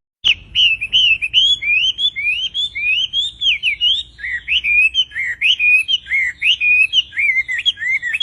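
A songbird singing a fast, unbroken string of short slurred whistles and chirps, each note sweeping up or down.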